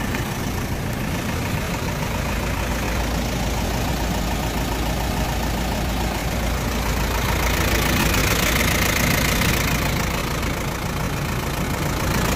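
Refrigerated box truck's engine idling steadily with a low rumble, while the truck is parked.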